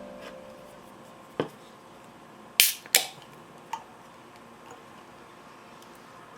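A few sharp clicks against quiet room tone: a softer one about a second and a half in, two loud ones in quick succession just before the three-second mark, and a fainter one shortly after.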